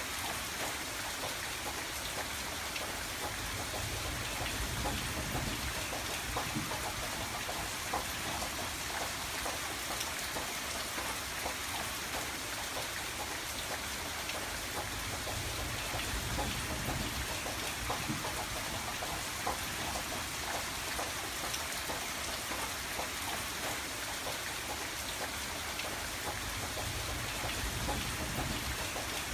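Steady rain on a window pane, a dense hiss with many small drop taps. A low rumble swells and fades underneath it about three times.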